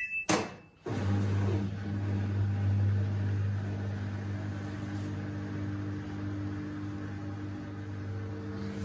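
Samsung WD70T4047CE washer-dryer starting its cycle: a short beep and a click, then from about a second in the drain pump running dry with a steady low hum before any water is let in.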